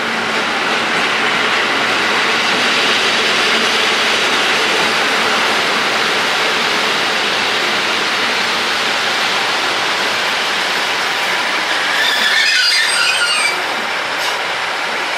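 KiHa 85 series diesel multiple unit rolling past with a steady rumble of wheels on rail. A brief high wheel squeal comes near the end as the last car goes by.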